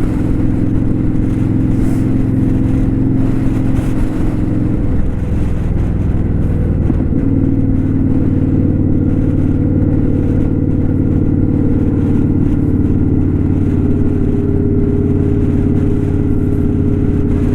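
Kawasaki Vulcan 900 Custom's V-twin engine running steadily under way. Its note breaks up and changes about five seconds in, then settles again.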